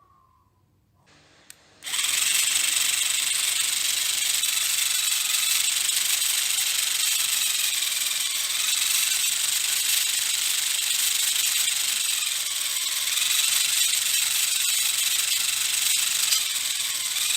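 A small electric gear motor running steadily with a high whir and hiss. It switches on suddenly about two seconds in and then holds at an even pitch.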